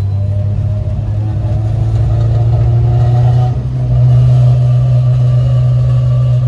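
Honda Civic EG hatchback's engine and Yonaka exhaust heard from inside the car under acceleration: the note rises for about three and a half seconds, dips briefly at a gear change, then pulls on steadily and louder at higher revs.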